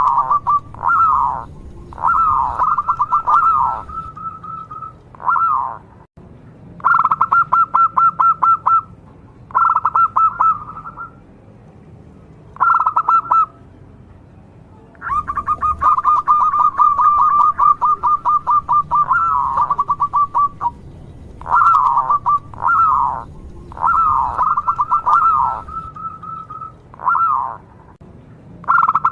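Zebra dove (perkutut) singing: a run of rapid, staccato cooing phrases, each a quick string of pulsed notes held at one pitch, some ending in falling swoops. The phrases come every second or two with short pauses between, and one long phrase runs for several seconds past the middle.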